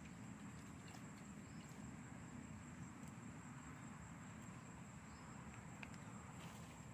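Faint outdoor ambience: insects keep up a steady, high-pitched drone over a low rumble, with a few faint ticks.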